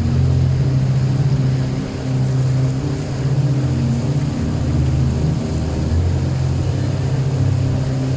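Boat engine running steadily, heard on board, a low, even drone.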